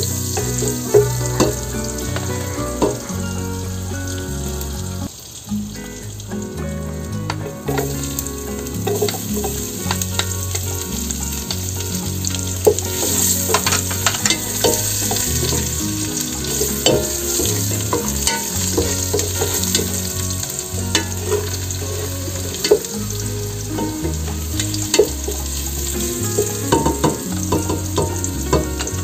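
Chopped garlic sizzling in hot oil in an enamel-coated pot, stirred with a wooden spatula that scrapes and taps against the pot.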